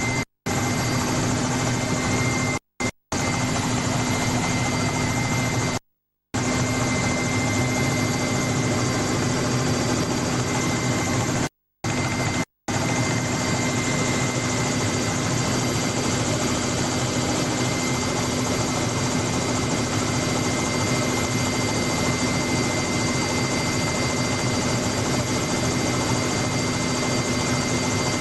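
Helicopter turbine and rotor noise heard from aboard: a steady dense drone with a constant whine. The sound cuts out completely for a moment several times in the first half.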